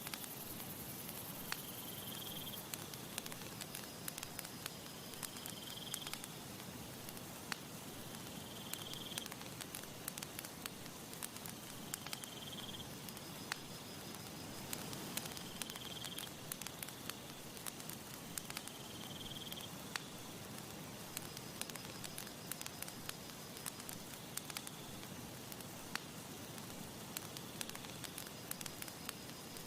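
Campfire crackling and popping in irregular clicks over a soft steady hiss, with a short high chirp repeating about every three and a half seconds in the background.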